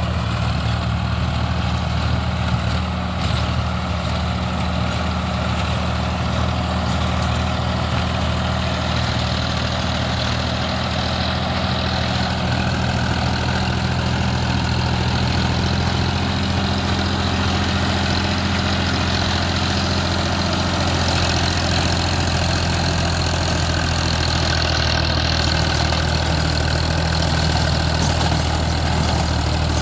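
Sonalika DI-35 tractor's diesel engine running steadily at an even speed.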